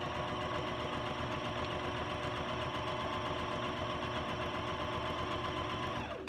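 Electric sewing machine running steadily at speed, stitching a straight seam through a paper journal page.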